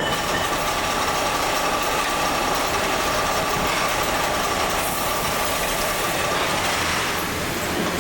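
Machinery running steadily, a dense mechanical noise with a constant high whine through it.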